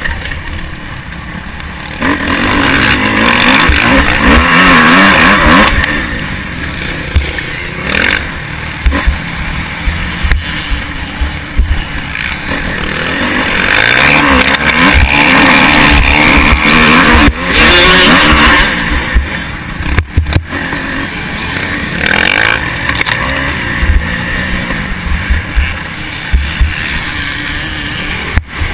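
Motocross bike engine heard from an onboard camera, repeatedly revving up hard and falling back, with loud full-throttle surges twice. Rumble and knocks from wind and bumps hit the microphone throughout.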